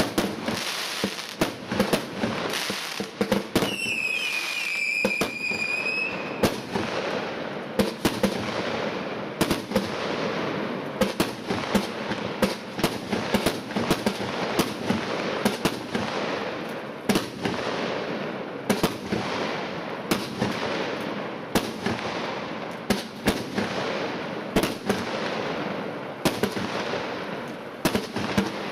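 Pyro Tec Pro 9 compound fireworks battery firing a continuous barrage: rapid launch thumps and bursts over dense crackling. A high whistling shot sounds for about two and a half seconds a few seconds in.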